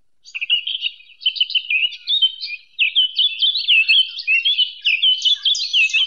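Birds chirping and singing: a fast, unbroken run of short, high, sliding notes that cuts off suddenly at the end.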